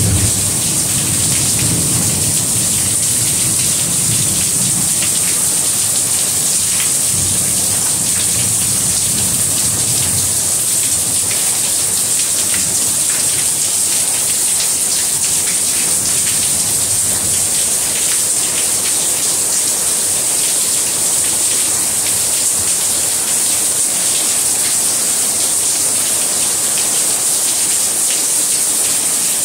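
Heavy rain falling steadily in a downpour, splashing onto wet concrete and foliage. A low rumble sits under the rain for roughly the first ten seconds.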